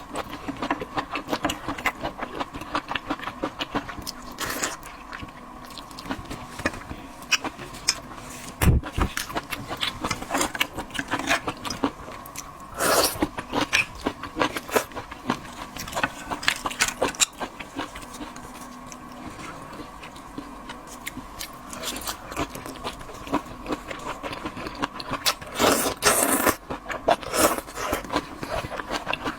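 Close-miked eating of seafood: irregular clicks, smacks and crunches of biting and chewing shellfish, with a few louder bursts along the way. A faint steady hum runs underneath.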